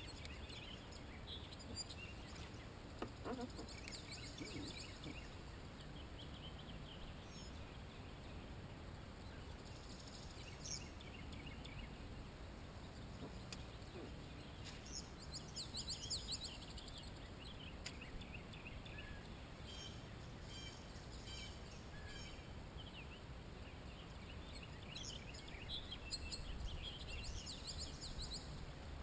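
Songbirds singing in short high-pitched phrases that come back every few seconds, over a steady low background rumble.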